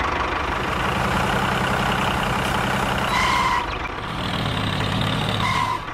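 Tractor engine running steadily, with two short high-pitched beeps about two seconds apart.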